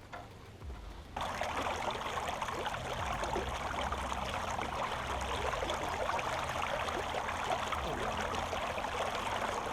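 Steady splashing, trickling water, like water pouring into water, that starts abruptly about a second in and runs on evenly.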